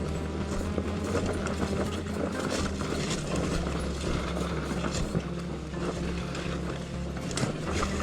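Dirt bike engine running at low revs, with scattered knocks and scrapes over it.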